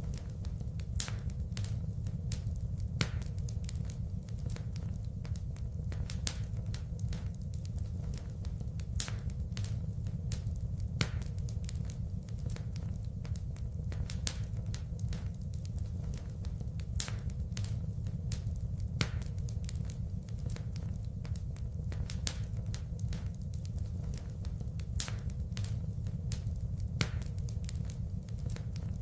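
Wood fire burning in a fireplace, crackling with many irregular sharp pops over a steady low rumble.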